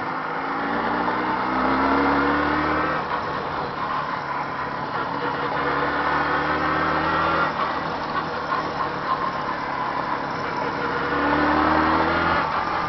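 Jawa 638's two-stroke parallel-twin engine running under load as the motorcycle pulls away. Its pitch climbs three times, each climb ending in a drop as the rpm falls. The engine is being run in.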